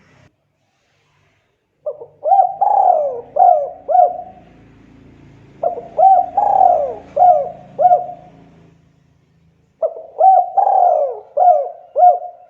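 Spotted dove (tekukur) cooing: three phrases of five or six short hooked coos each, with one longer coo in each phrase, about four seconds apart.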